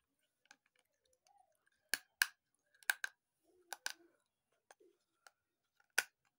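Slate pencil being bitten and chewed close to the microphone: a string of sharp, brittle crunches, several in quick succession in the middle and one more near the end, with faint small crackles between them.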